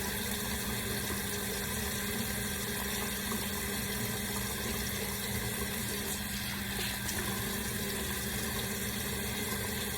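Water running steadily from a tap, with a low steady hum underneath.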